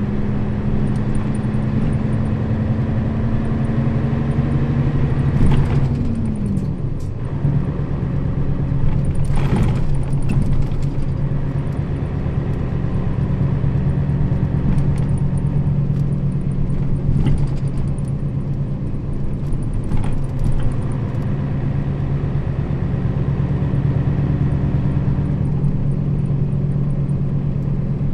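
Nissan Diesel KL-RA552RBN bus's diesel engine running under way with a steady low drone. Its pitch climbs slightly and then drops about five seconds in, and a few short knocks and rattles come through.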